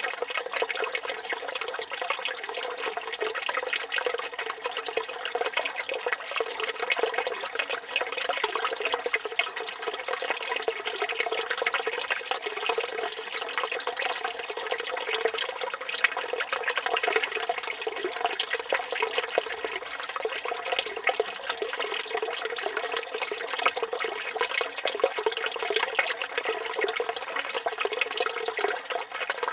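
Water from a village fountain running steadily and splashing in an even, unbroken stream.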